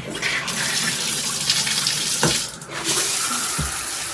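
HOPOPRO 9-setting high-pressure shower head spraying water at full flow, turned on just at the start. The spray briefly dips about two and a half seconds in, then runs on steadily.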